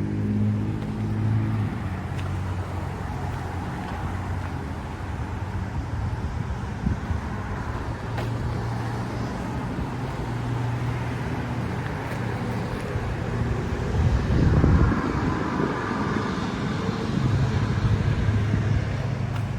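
Road traffic: motor vehicles running and passing, with a steady engine hum throughout and one louder pass about fourteen seconds in.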